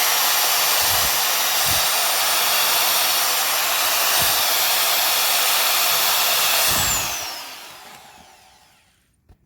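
Power drill running steadily while drilling out a leaf spring bushing, then released near the end, its motor whining down in pitch as it coasts to a stop. A small click follows at the very end.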